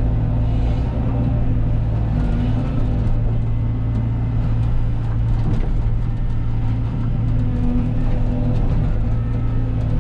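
Cat 313 excavator's diesel engine running steadily under working load, with a few faint knocks and clanks from the machine.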